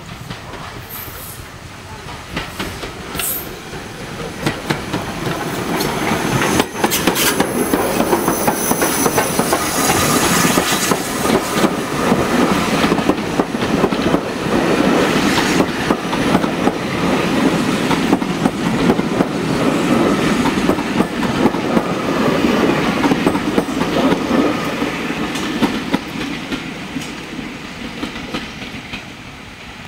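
Heritage steam-hauled passenger train passing close by. Its sound builds as it approaches, then a long rake of carriages rolls past with the wheels clattering steadily over the rail joints, easing off near the end as the train draws away.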